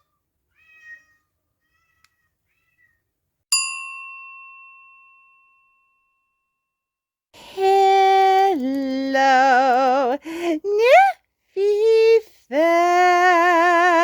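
A single bell-like ding about three and a half seconds in, ringing out over a couple of seconds. From about seven seconds there follows a series of loud, long, wavering cat meows, one gliding upward.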